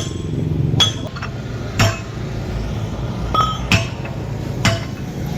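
A hammer striking steel in sharp, ringing metallic clinks, about one blow a second, during work on a tyre and rim.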